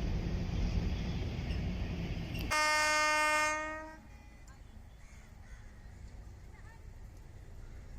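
Low rushing roar of an express train passing close by, then an abrupt cut to a single locomotive horn blast of about a second that fades out. Quiet trackside ambience follows, with a few faint bird calls.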